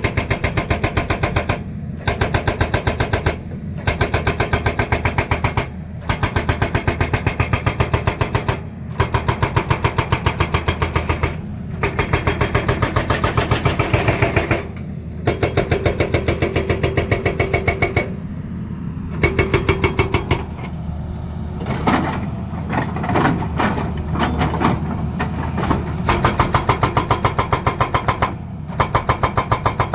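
Hydraulic rock breaker on a Tata Hitachi excavator hammering in rapid blows, in bursts of one to a few seconds with brief pauses between, over the excavator's running diesel engine. Past the middle the bursts become shorter and more irregular.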